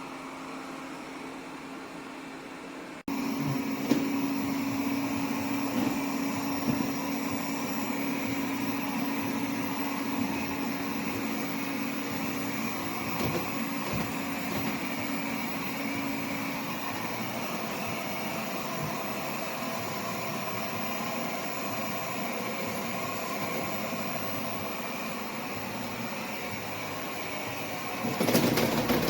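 Airzeen R7 robot vacuum running, its motor giving a steady hum and hiss. The sound jumps abruptly louder about three seconds in and swells again near the end, with a few light knocks.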